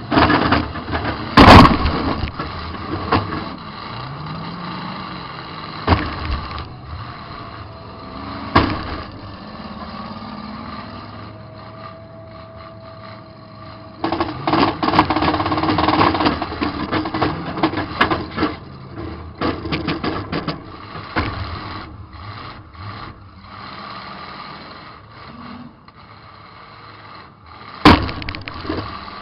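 Demolition derby car heard from inside the cab: the engine revving up and down between hits, with several hard metal-on-metal crashes. The loudest crash comes about a second and a half in, and another comes near the end.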